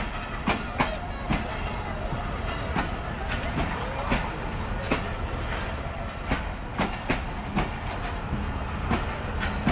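Hazara Express passenger train rolling along the track, its wheels clacking over the rail joints at an uneven rate of roughly two clacks a second over a steady low rumble.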